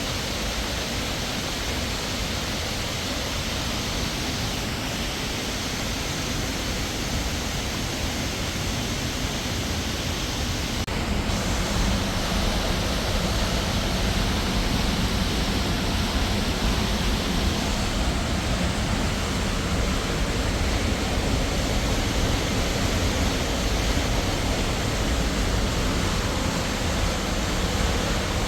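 Waterfall: a steady rush of falling water, a little louder after about eleven seconds.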